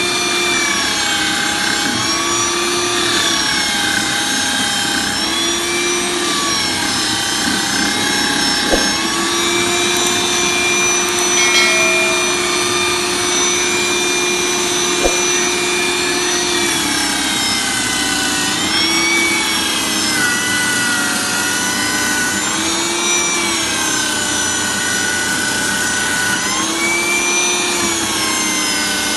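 Electric drill fitted as a coconut grater, its motor whining steadily over a rough scraping noise, the pitch repeatedly sagging and recovering as it is loaded. Two sharp clicks come through about a third and halfway in.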